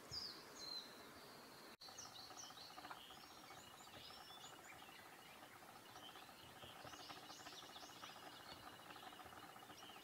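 Faint chirping of small birds: many short, high notes scattered throughout, with a momentary cut-out of the sound about two seconds in.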